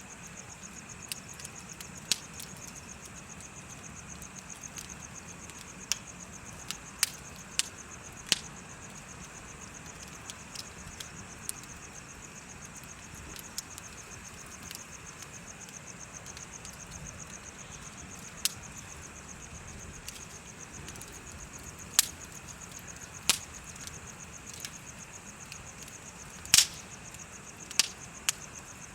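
Bonfire crackling, with sharp pops at irregular intervals, the loudest few in the last quarter, over a steady, fast, high-pitched trill of chirping insects.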